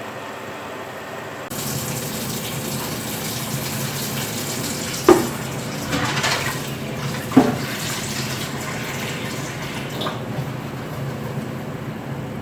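Water running steadily from a tap, switched on abruptly, with two sharp clinks partway through.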